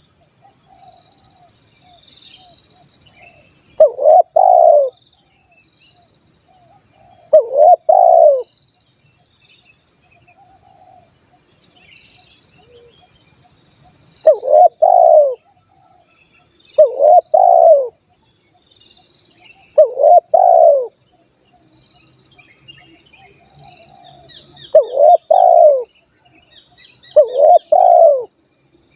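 Spotted dove (tekukur) cooing: seven short phrases, each of two quick low notes, repeated every two to five seconds, played as a lure call for wild doves. A steady high insect drone and faint small-bird chirps run underneath.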